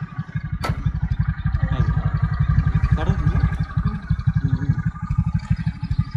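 Motorcycle engine idling with a steady, fast low throb, and a sharp click about half a second in.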